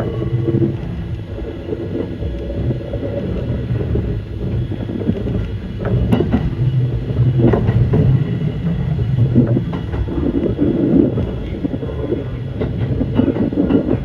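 Kintetsu 9200 series electric train running: a steady low rumble with a motor hum, and wheels clicking over rail joints.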